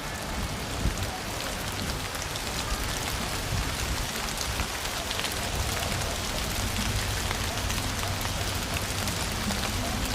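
Steady rain falling and pattering on hard surfaces, with many fine drop clicks.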